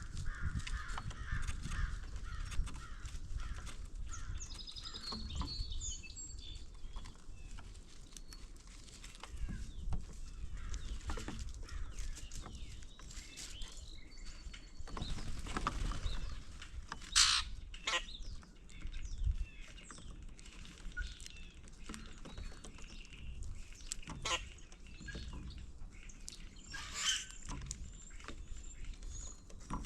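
Wild songbirds chirping and calling, with a couple of louder harsh calls about halfway through and near the end, over a low rumble.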